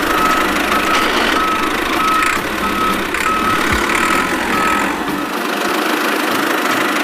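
Regular electronic beeping like a vehicle's reversing alarm, about one and a half beeps a second, over a continuous noisy motor-like din; the beeping stops about five seconds in.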